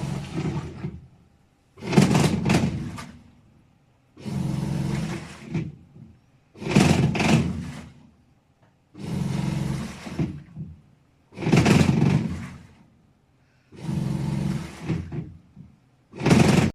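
Iris Ohyama IAW-T606-B top-loading washing machine in its wash cycle: the pulsator motor runs in bursts of a second or so, about seven times, with short pauses as it reverses, and water churns with each stroke.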